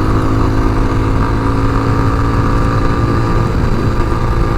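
Tao TBR7 dual-sport motorcycle's single-cylinder engine running at a steady speed while riding, its pitch holding level throughout.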